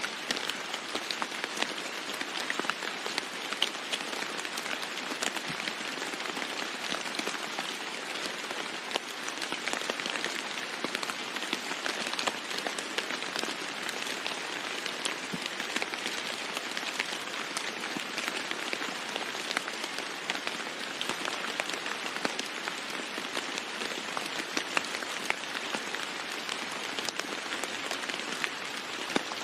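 Steady heavy rain falling on a roof, with many individual drops striking close by as sharp little ticks over an even hiss.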